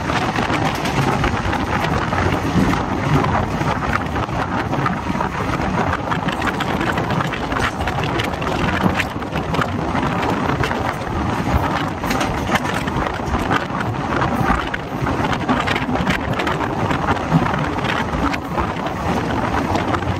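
Old ICF passenger coach of an express train running at speed: a steady rush of wind and wheel-on-rail noise with many small rattles and clicks.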